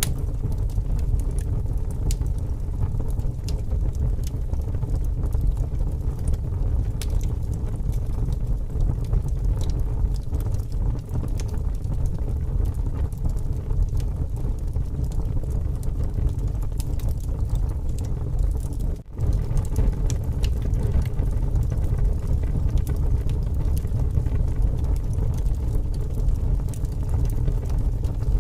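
Wood fire burning with scattered crackles and pops over a heavy, steady rumble of wind. The sound cuts out for a split second about 19 seconds in.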